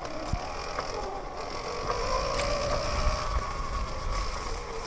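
Sur-Ron electric dirt bike riding along a trail: the electric motor's whine holds steady and sinks slightly in pitch near the end, over drivetrain rattle, clicks and low rumble from the bumpy ground.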